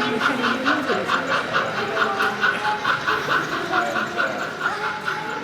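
A running train's even rhythmic beat, about five a second, with people talking in the background.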